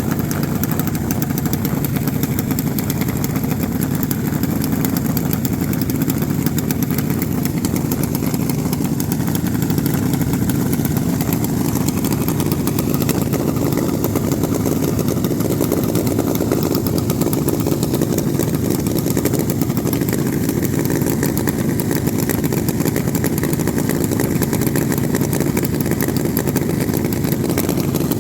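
Small-block racing mini bike engine running steadily near idle, with no revving.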